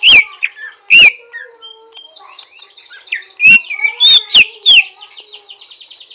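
Greater green leafbird singing: loud, sharp whistled notes that bend in pitch, two near the start and a quick run of four a little past halfway, over a rapid, rough, buzzy chatter.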